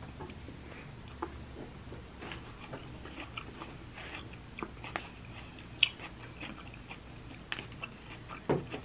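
Chewing and crunching of raw kale salad, with many small, scattered, sharp crackles and clicks. One click about six seconds in is louder than the rest.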